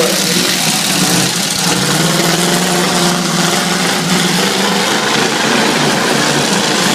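Derby trucks' engines running loudly together, a steady mass of engine noise with a pitch that wavers slightly.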